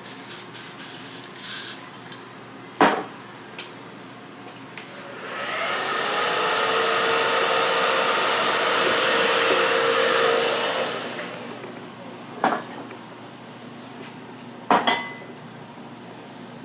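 A handheld blow dryer switches on, its motor spinning up to a steady whooshing run for about five seconds before it shuts off. Around it are a few sharp knocks and clicks: one before the dryer starts and two near the end, from tools set down or handled.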